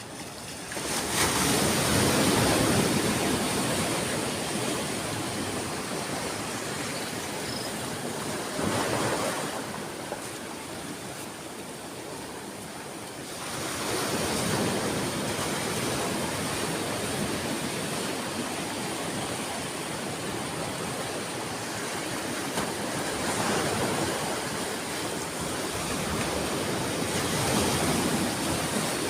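Ocean surf: waves breaking and washing up the shore in a continuous rush that swells and ebbs, with about five surges a few seconds apart, the loudest about a second in.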